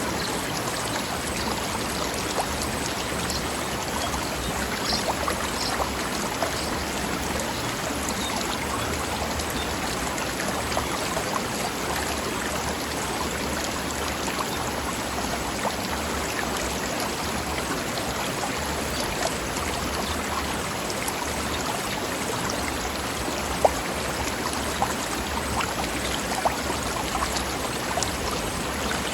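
Forest stream flowing and splashing over rocks, a steady rush of water with small splashes and gurgles.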